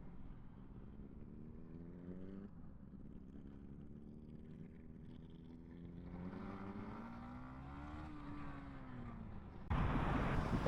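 Yamaha MT-125's single-cylinder four-stroke engine pulling under acceleration: the pitch rises, drops at an upshift about two seconds in, climbs again, then falls away as the throttle eases. Near the end a loud rushing noise suddenly takes over.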